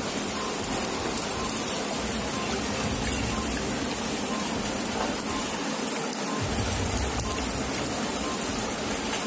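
Steady hiss of rushing water, with a low rumble that comes and goes.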